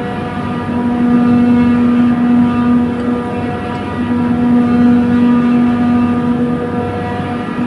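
Chiller compressor running: a steady, loud machine hum with one strong low tone and a ladder of higher overtones, over a broad rumble, the tone swelling and easing slightly every few seconds.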